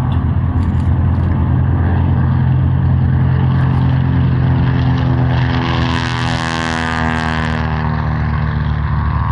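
Grumman TBM-3 Avenger's 14-cylinder Wright R-2600 Cyclone radial engine running as the aircraft flies by. Its pitch falls as it passes, about six seconds in.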